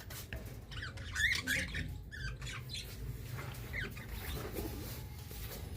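Pet budgerigars chirping in short, scattered calls, loudest about a second in, with small clicks and rustles in between.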